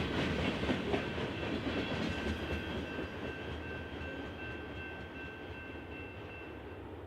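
BNSF freight train rolling past, its wheels clicking over the rail joints with a steady rumble. The sound fades as the cars move away, and a faint high steady whine dies out near the end.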